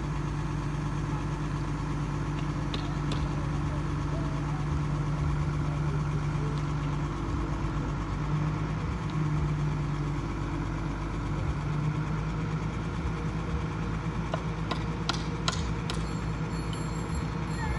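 Heavy construction vehicle's engine running steadily at low revs, with a few sharp clicks near the end.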